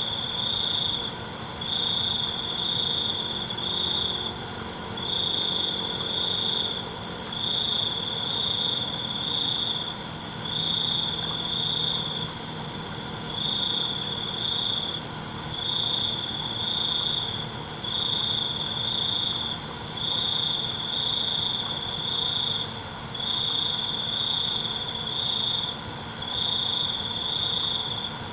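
Crickets chirping: a loud, high trill comes in bouts of about a second, repeating roughly every two seconds, over a steady chorus of other insects with fainter pulsing chirps.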